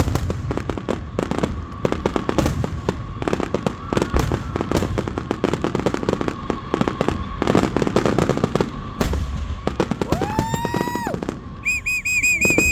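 Fireworks display: dense crackling and popping bursts throughout. About ten seconds in a whistle rises and holds for about a second, and near the end a warbling, wavering whistle starts up, an unusual noise likened to aliens.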